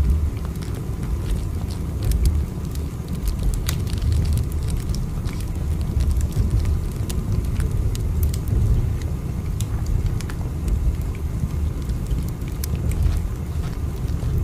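Steady low rumble of a moving train, with scattered small clicks and creaks over it.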